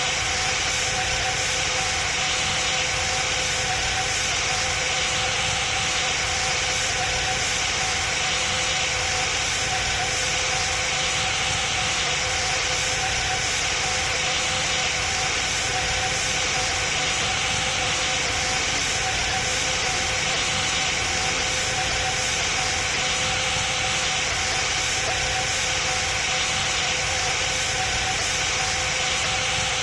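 Boeing 777 passenger cabin noise: a steady rushing drone of jet engines and airflow with a constant hum, unchanging throughout.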